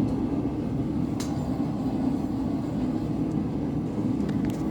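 Blacksmith's forge running, a steady low rushing noise with no change, with a faint click about a second in and a few light clicks near the end.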